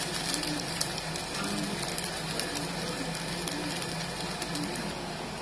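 Rava dosa batter frying in oil on a non-stick pan: a steady sizzling hiss with scattered tiny crackles.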